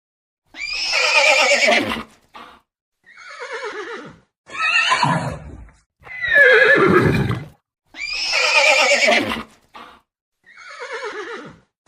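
A horse neighing, about six whinnies in a row with short gaps between them, several falling in pitch as they go.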